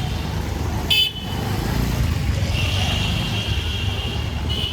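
Street traffic: a steady low engine rumble, with a short, sharp high-pitched horn toot about a second in, then a steady high-pitched tone from about halfway on.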